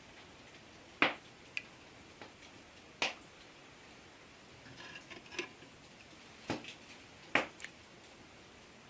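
A few sharp, irregularly spaced clicks or taps of something small and hard, about five in all, with a short run of faint clinks in the middle.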